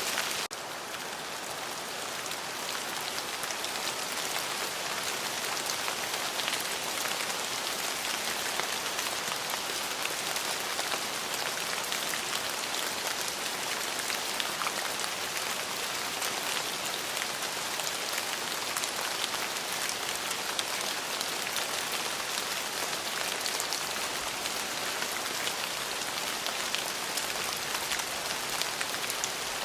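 Steady heavy rain, with many individual drops pattering on a surface and no thunder. The rain dips slightly about half a second in and builds back over the next couple of seconds.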